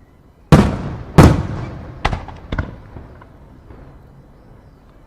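Aerial firework shells bursting: two loud bangs less than a second apart, each trailing off in a rumbling echo, then two smaller cracks about half a second apart.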